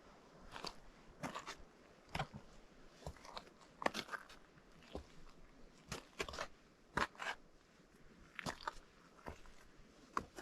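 Footsteps crunching on partially melted, granular spring snow at an unhurried walking pace. Each step is a short crunch, about one a second, some of them doubled.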